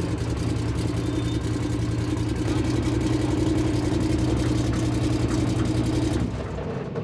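Off-road race vehicle's engine running at a steady pitch, then dropping away about six seconds in.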